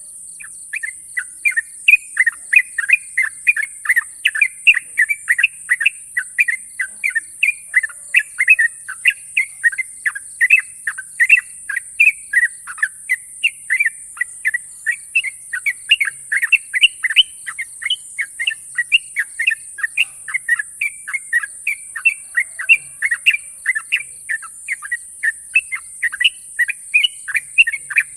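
Yellow-vented bulbul (trucukan) singing a long, fast run of short chirping notes, several a second, without a break. A steady high hiss runs underneath.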